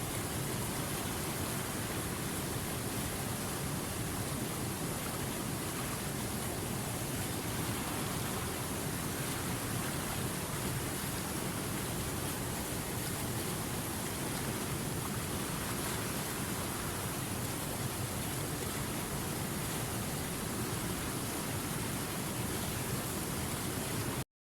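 River water rushing over rocks: a steady, even rush of flowing water with no change in strength. It cuts out to silence for a split second near the end.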